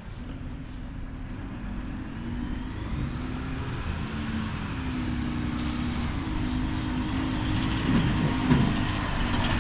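Mack LR recycling truck's diesel engine running, its pitch wavering a little and the sound growing louder over the seconds, with a short knock near the end.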